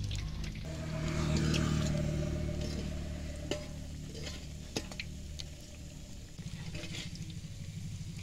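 Mandazi dough balls deep-frying in hot oil in a metal pan, with a light sizzle and a couple of sharp clinks as metal tongs turn them against the pan. A low, steady engine-like hum runs underneath, louder than the frying.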